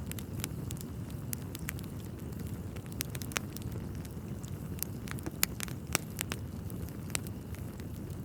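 Wood fire burning in a fireplace: a steady low rumble of flames with frequent sharp crackles and pops, the loudest pops about five and a half and six seconds in.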